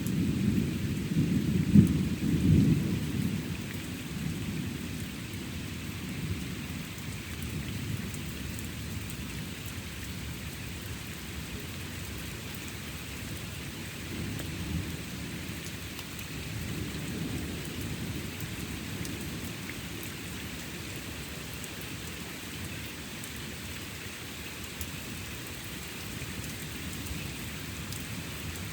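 Thunder rumbling over steady rain: a loud roll peaks about two seconds in and fades, and a fainter roll comes about halfway through.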